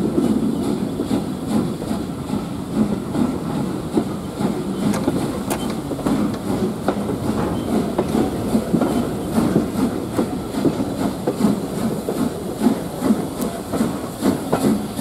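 A steam-hauled train in motion, heard from an open carriage window: the coaches rumble along with the wheels clicking and knocking over the rail joints.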